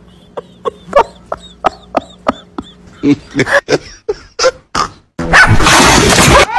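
A small dog barking a few short times, after an even run of sharp clicks about three a second, then a loud rushing noise near the end.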